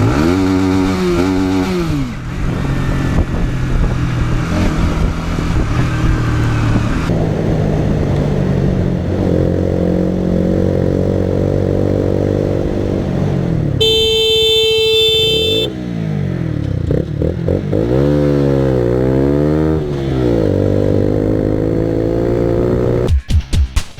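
Motorcycle engine revving, its pitch rising and falling again and again. A horn sounds once for about a second and a half a little past halfway. Electronic music comes in near the end.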